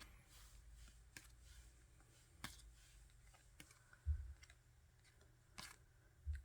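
Faint scattered clicks and light taps of photocards being handled and set down on a table, with a couple of soft low thumps.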